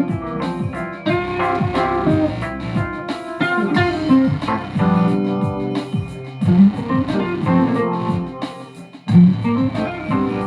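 Guitar music: a run of plucked guitar notes with low sliding notes beneath, thinning out briefly about nine seconds in before picking up again.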